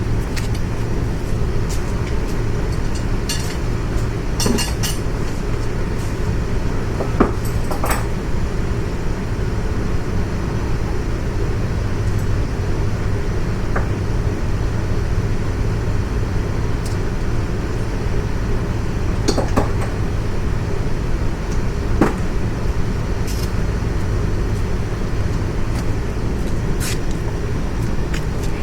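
Steady low mechanical hum, with scattered metallic clicks and clinks of sockets and wrenches being fitted to bolts on a motorcycle during teardown.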